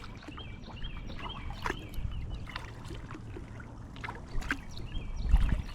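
Kayak paddling on a river: scattered drips and light knocks of the paddle. A bird sings repeated rising-and-falling whistled notes in the first two seconds and again near the end, and a low rumble swells near the end.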